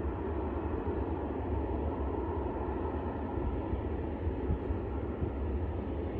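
Steady jet engine rumble from an Airbus A220-300's Pratt & Whitney PW1500G geared turbofans, a deep even noise with no change in pitch.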